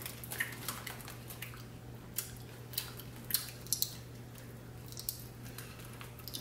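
Faint, scattered crunches and crackles as a crunchy bacon-flavoured cereal snack is chewed, over a steady low electrical hum.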